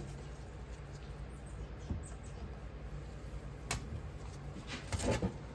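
Faint scraping of a hand tool cutting a sprue channel into oil-bonded Petrobond casting sand, with a sharp click a little before four seconds in, over a steady low hum.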